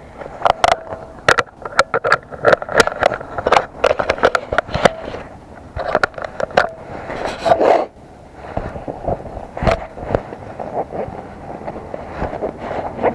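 Irregular sharp knocks, clicks and scrapes of the camera being jostled and rubbed while the bike ride gets under way, thinning out to a rougher rumble after about eight seconds.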